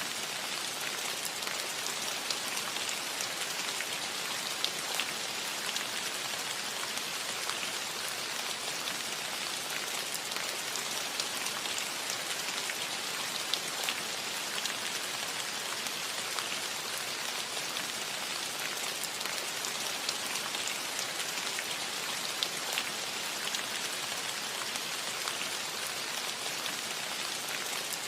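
Steady rain falling on a metal roof: an even hiss dotted with small sharp drop ticks.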